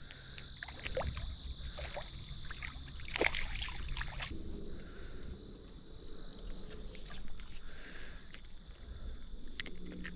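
Faint water sloshing at the creek's edge with scattered small clicks and knocks, the sharpest about three seconds in, over a steady high insect drone.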